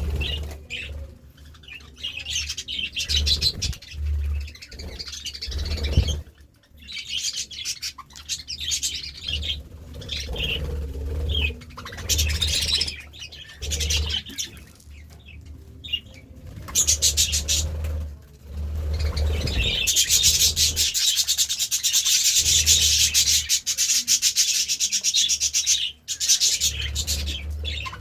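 Budgerigars chirping and chattering in short scattered bursts, mixed with scratchy rustling that becomes a dense, steady scratching for the last third.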